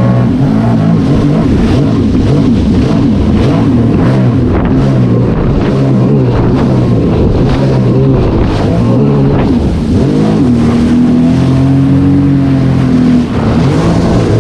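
Sea-Doo personal watercraft engine running on the water at cruising speed, its pitch rising and falling with the throttle. The engine holds a steadier, higher note for a few seconds near the end, then eases off briefly.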